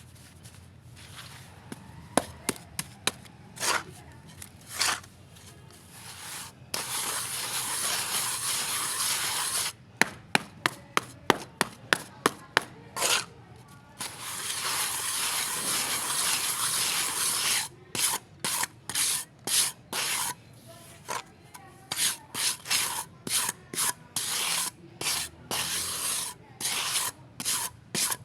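A wet powder-and-water paste being stirred and scraped around a container: runs of short scraping strokes, about two a second, broken by two long stretches of continuous scraping.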